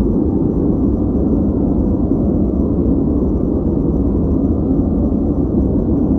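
Steady synthetic white noise, deep and muffled, with its energy in the low and middle range and almost nothing in the highs.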